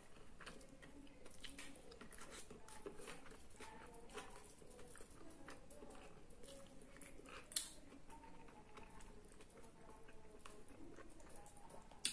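Quiet eating sounds: chewing, and fingers picking chicken and working it into rice, with many small clicks and one sharper click about seven and a half seconds in.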